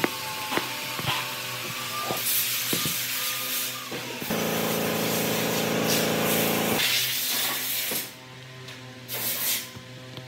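Workshop sounds: a hiss like spray or blown air, scattered sharp clicks, and a motor running steadily for a couple of seconds around the middle.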